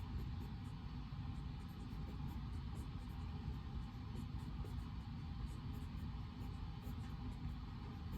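Steady, even study-room white noise with a low rumble, and faint light ticks scattered through it.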